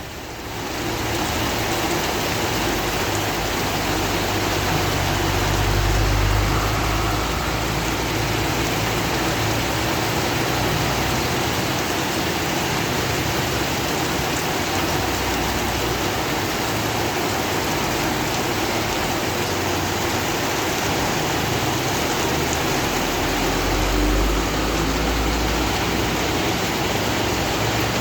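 Steady heavy rain falling in an even hiss. A low rumble swells briefly about a fifth of the way in and again near the end.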